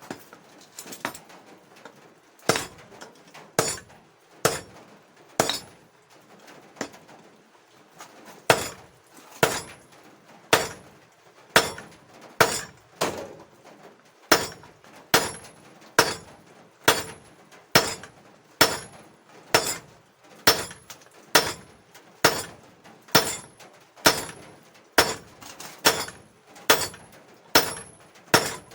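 Hand hammer striking hot steel on an anvil to forge a weld chipping hammer, each blow followed by a bright metallic ring. The blows come irregularly at first, then settle into a steady rhythm of a little over one a second.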